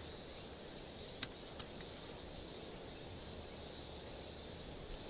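Quiet outdoor ambience: insects give a steady high buzz that swells and dips, over a low background rumble. A few light sharp clicks come about a second in.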